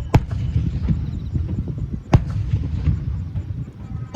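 Aerial fireworks bursting: sharp bangs about two seconds apart, over a continuous low rumble.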